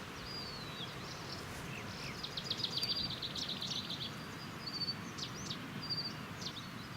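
Several songbirds singing: short high chirps and whistles, with a fast trill lasting about a second a little over two seconds in, over a steady low background rush.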